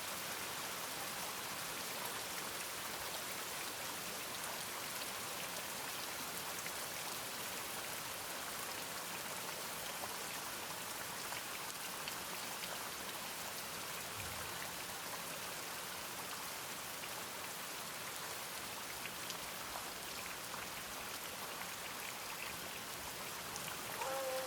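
Steady rain with a dense, even patter of drops.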